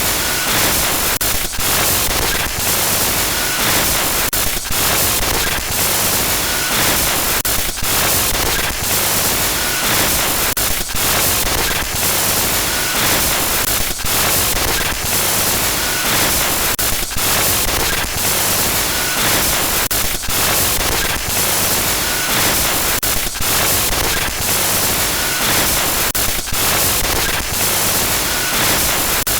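Loud, continuous electronic static glitch noise: a harsh hiss covering every pitch, broken by brief dropouts about once a second, with a faint high tone recurring every few seconds.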